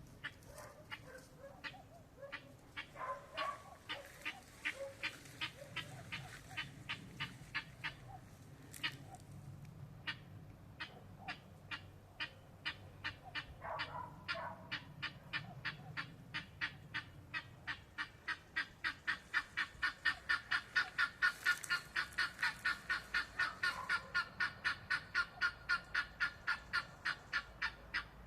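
14-week-old guinea fowl calling in a long run of short, sharp repeated notes. The notes are scattered at first, then settle into an even, louder series of about three a second for the last ten seconds or so, with a few lower calls mixed in.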